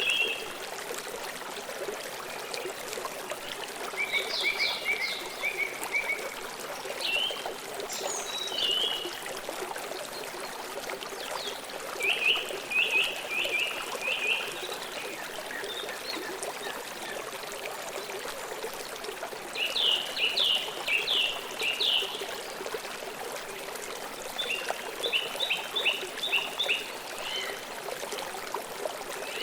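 Steady flowing water from a forest stream, with an animal calling in about five short runs of rapid, high chirps spread across the sound.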